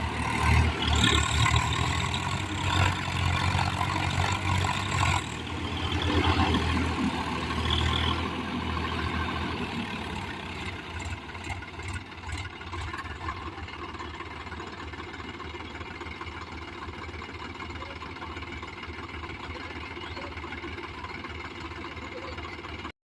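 Tractor diesel engine running hard for the first eight seconds or so, then settling to a quieter, steady run.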